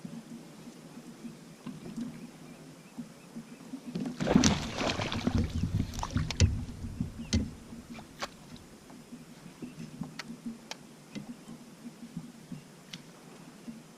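Sounds from aboard a fishing kayak: scattered sharp clicks and knocks, with a loud burst of water and handling noise from about four to seven and a half seconds in.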